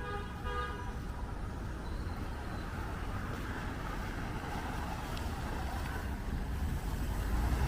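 Street ambience: a steady low rumble of road traffic, with a short pitched sound, like a horn or a call, right at the start. The rumble grows louder near the end as a vehicle approaches.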